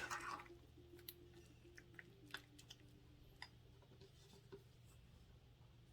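Near silence: a faint low room hum with a handful of soft, scattered clicks and taps.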